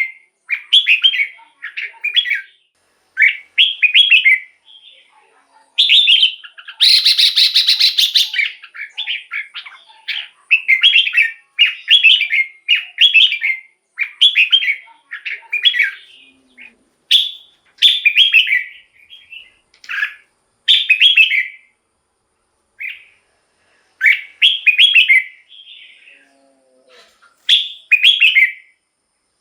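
Red-whiskered bulbul singing: short, quick whistled phrases repeated about once a second with brief gaps. About seven seconds in comes one longer, harsher chattering phrase.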